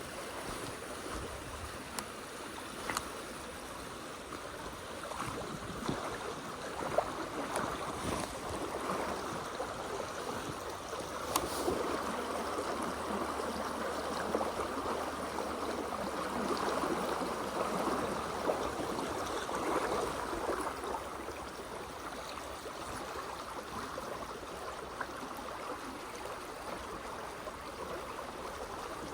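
Water of a small mountain stream rushing steadily over rocks, with a few faint clicks in the first half.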